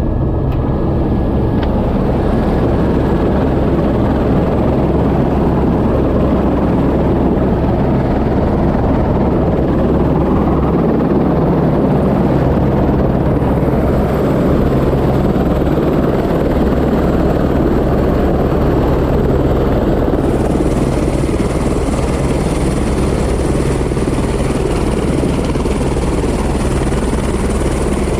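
Helicopter running steadily with the dense, even rotor and engine noise of flight. A thin high whine joins in about two-thirds of the way through.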